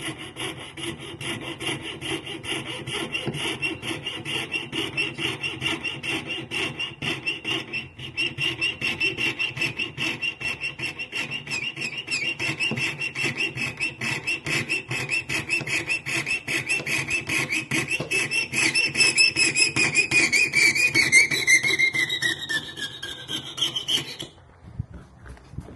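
Rapid back-and-forth strokes of a hand tool cutting or shaping a bone guitar saddle blank, with a steady ringing squeal riding on the strokes. Near the end the squeal falls in pitch, then the stroking stops suddenly.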